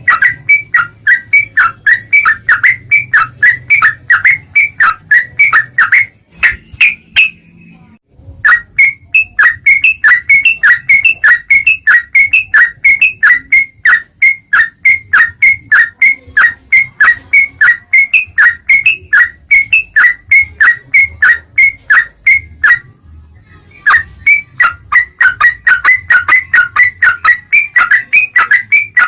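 Yellow-vented bulbul (trucukan) calling rapidly: short, sharp chirping notes repeated about three a second, broken by two brief pauses, over a faint low hum.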